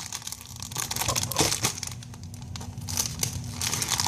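Plastic toy packaging crinkling and rustling in irregular bursts as it is being opened.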